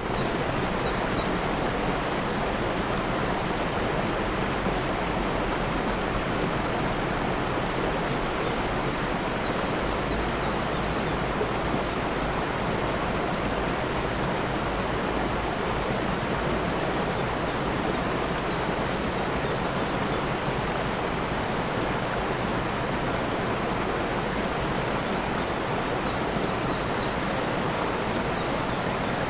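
Waterfall rushing steadily, with a small bird singing short runs of quick high chirps several times over the water.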